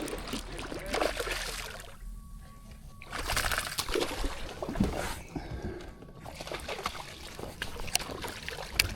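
Water splashing and sloshing in irregular bursts at the kayak, with brief lulls about two and five seconds in.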